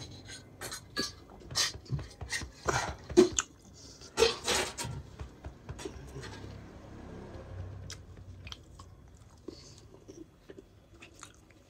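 A man chewing a mouthful of rice and pork, a quick run of loud, wet chews for the first five seconds or so, then fainter, sparser ones.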